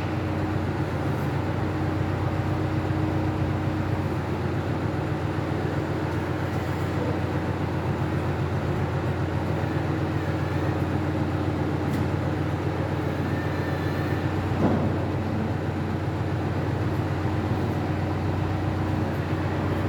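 Vehicle engine idling steadily, a low even hum, with one short clack about fifteen seconds in.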